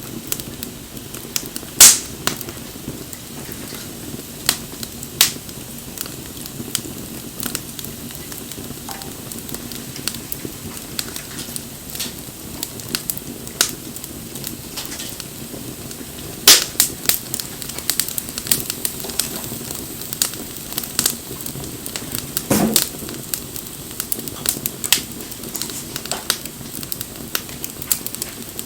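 Wood bonfire burning: a steady low rush of flame with frequent sharp crackles and pops from the burning wood. The loudest pops come about 2 seconds in and again about midway, with a thicker burst of crackling a little later.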